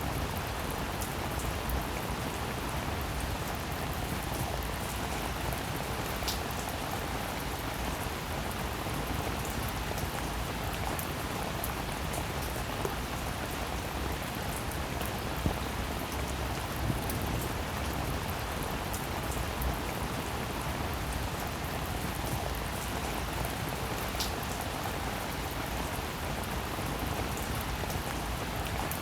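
Steady rain falling: an even hiss of many drops, with now and then a sharper single drop tick standing out.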